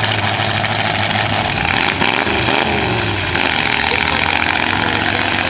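Demolition derby car engines running together, with one engine revving up and back down about two seconds in.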